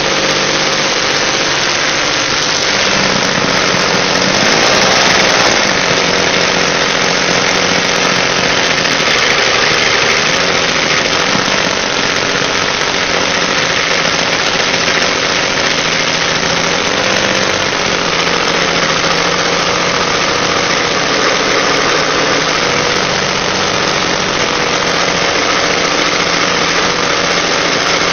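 Two-stroke aircraft engine running loud and steady on a stand. About four seconds in, its speed rises briefly and then settles back.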